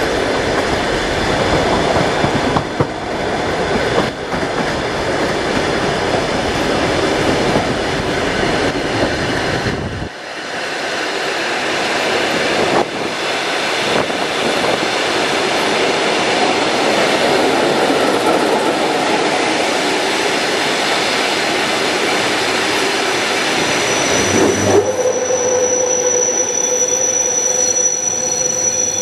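Passenger train carriage running along the track, heard at the window: a steady rumble of wheels on rail that loses its deep low end about ten seconds in. About 25 seconds in, a steady whine with a mid and a high tone sets in and holds.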